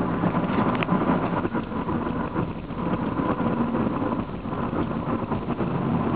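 Steady engine and road noise of a Honda car heard from inside its cabin while driving.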